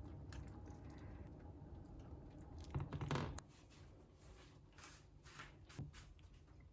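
Faint handling noise in a small room: a brief louder clatter about three seconds in, then a few light clicks.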